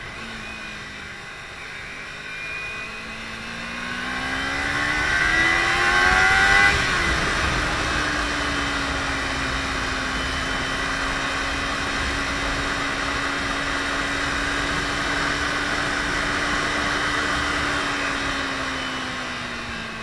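Kawasaki Ninja 300's parallel-twin engine pulling hard, its pitch rising for a few seconds and dropping off sharply about seven seconds in, then holding a steady cruise before easing near the end. Wind rushes over the helmet-mounted microphone throughout.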